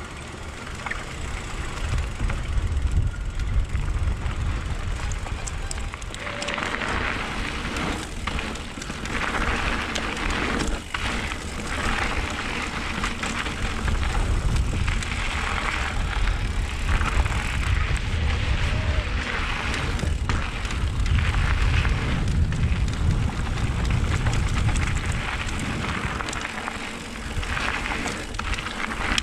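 Wind buffeting the microphone of a camera on a moving mountain bike, a constant deep rumble, with bursts of hiss from the tyres rolling and skidding over loose dirt and gravel.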